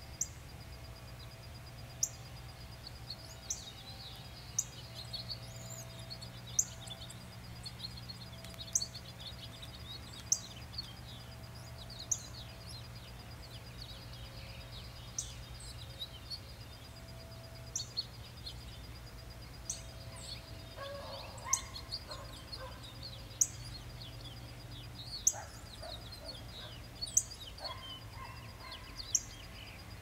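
Woodland birds calling: a sharp, high chip repeated about every two seconds over many softer chirps. Lower, coarser calls come in twice, just past the middle and again near the end, over a faint steady hum.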